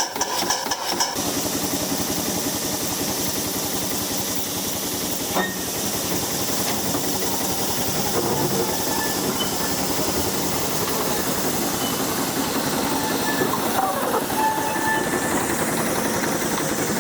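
Darjeeling B Class narrow-gauge steam locomotive hissing steam steadily, after a brief run of rapid regular beats in the first second. There is a single sharp click about five seconds in.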